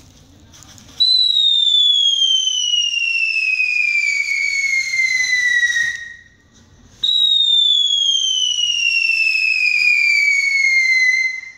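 Two whistling fireworks, one after the other, each giving a loud whistle of about five seconds that falls steadily in pitch as it burns.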